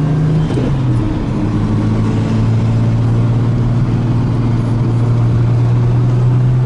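Turbocharged car engine droning steadily while driving. Its pitch drops about half a second in, then holds steady.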